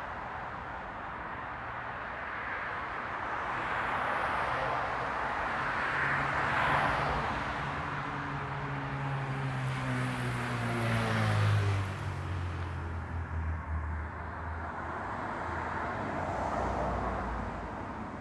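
Street traffic: several cars passing one after another, each rising and fading away. One has an audible engine hum that falls in pitch as it goes by, about ten seconds in.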